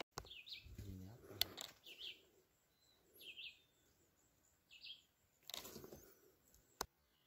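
Four short, high bird chirps spaced about a second and a half apart, faint, with a brief rustle and then one sharp click near the end.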